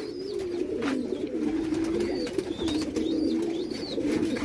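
Domestic pigeons cooing, several birds overlapping in a steady low cooing.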